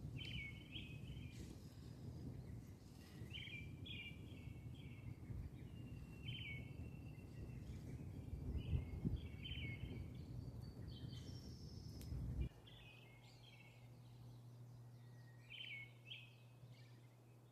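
Small birds chirping repeatedly in short clusters of high notes, over a low rumbling background noise that cuts off about twelve seconds in, leaving a faint steady low hum.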